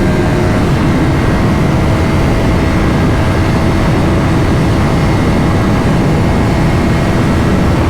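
Motorcycle riding at a steady speed: loud wind rush over the rider's microphone with a steady engine drone underneath.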